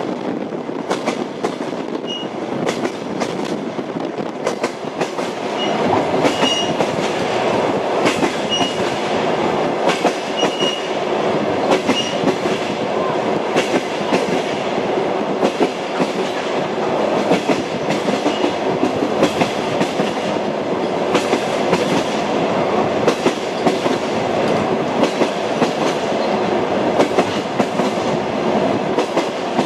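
Train wheels clicking over rail joints as a train runs at speed, over a steady rumble of the carriage, with a few brief high squeaks. The rumble grows a little louder about six seconds in.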